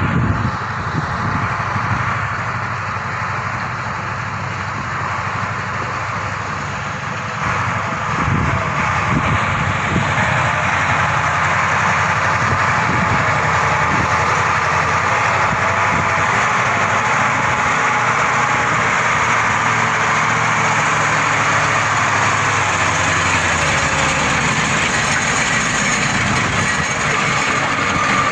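A heavy machine's engine running steadily, growing louder about eight seconds in and then holding.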